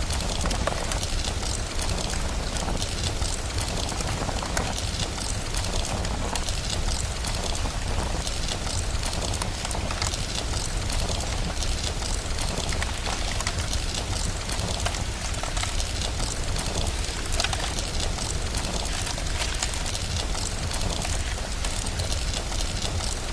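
Steady rain ambience with a constant low rumble, sprinkled throughout with fine crackles like a wood fire.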